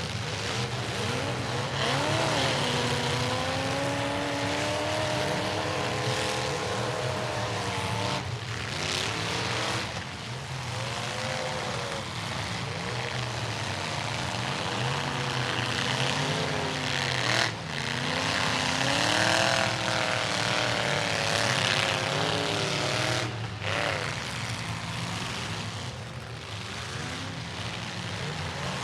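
Demolition derby truck engines revving up and down together, several pitches rising and falling over a steady roar. The sound breaks off briefly a few times.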